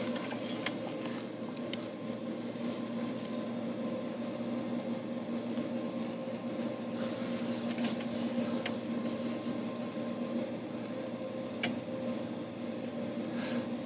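Steady mechanical hum of drain-inspection camera equipment, with two steady tones, one low and one mid-pitched, and a few faint clicks scattered through it.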